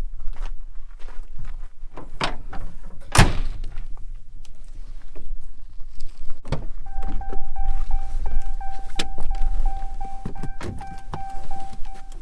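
A pickup truck's doors being shut, several dull thunks with the loudest about three seconds in. From about halfway a steady electronic warning chime from the truck rings on.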